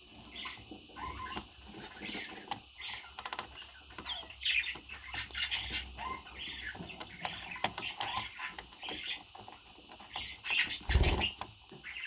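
A pet parrot making short chirps and chattering calls, with scattered clicks. There is one loud low thump about 11 seconds in.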